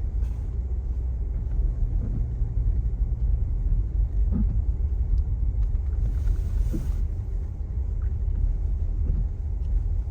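Steady low road and engine rumble inside the cabin of a car driving on snowy roads, with a brief hiss about six seconds in.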